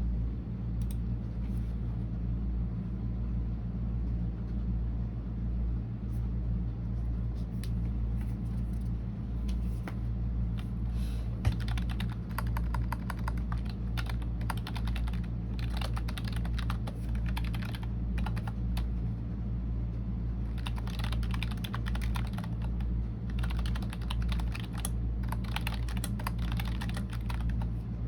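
Typing on a computer keyboard in uneven bursts of rapid key clicks: sparse at first, then steady runs of typing with a short pause about two-thirds of the way through. A steady low hum lies underneath, and there is one sharper single knock about a third of the way in.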